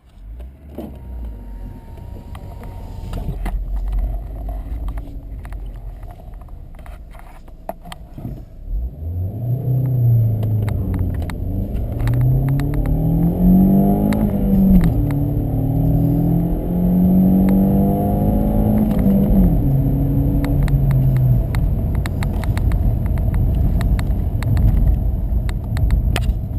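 Volkswagen Passat B5's 1.8-litre turbocharged four-cylinder engine under hard acceleration. It runs low for the first eight seconds or so, then the engine note climbs, drops at a gear change, climbs again and drops at a second change, then holds steady near the end.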